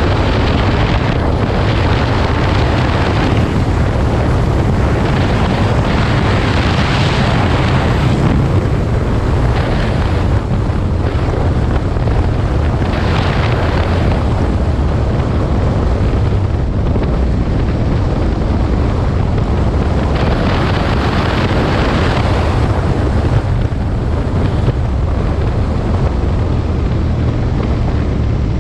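Aprilia Tuono 1000 V-twin motorcycle running steadily under way, mixed with heavy wind noise on the microphone that swells and eases every few seconds.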